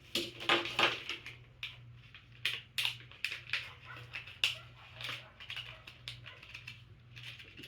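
Small packaging being handled and opened by hand: irregular plastic clicks and rustles, over a steady low hum.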